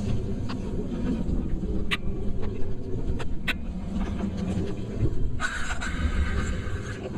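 Steady low rumble of a vehicle moving along a wet road, with a couple of sharp clicks. Near the end comes a burst of hiss, like tyres on wet tarmac.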